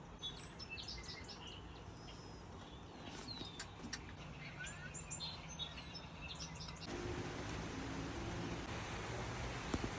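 Small birds chirping and calling with short chirps and quick whistles. About seven seconds in the chirps fade under a steady hiss.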